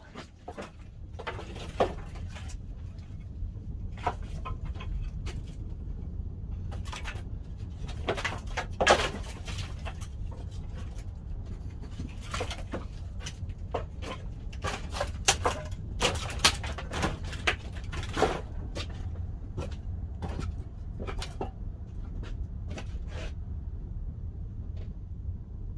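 Pine firewood burning in a wood-fired pottery kiln: a steady low rumble of the fire with many irregular sharp crackles and pops, the loudest about nine seconds in.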